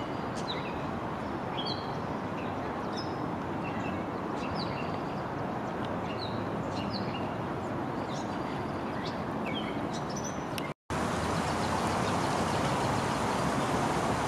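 Birds chirping: many short, high calls, several a second at times, over a steady rushing background noise. The sound cuts out for a moment near the end, and the background is louder after the break.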